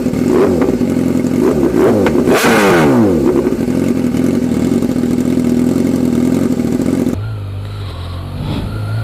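Sport motorcycles going past at speed: several engine notes sweep down in pitch as each bike passes, over a steady high engine drone. About seven seconds in the sound cuts abruptly to a lower, steadier engine hum.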